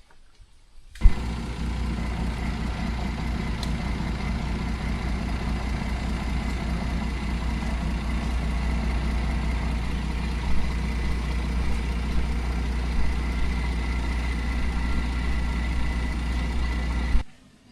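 A vehicle engine running steadily with a low, even hum. It starts abruptly about a second in and cuts off shortly before the end.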